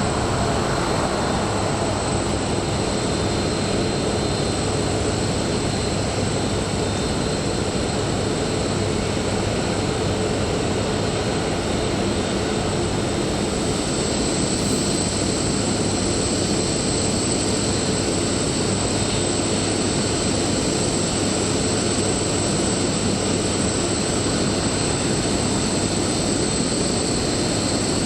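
Jet airliner engines running steadily, a broad rushing noise with a high, thin whine that grows stronger about halfway through.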